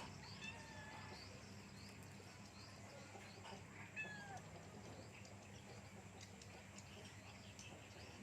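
Faint animal calls: scattered short high chirps and a couple of brief gliding calls, about half a second and four seconds in, over a low steady hum.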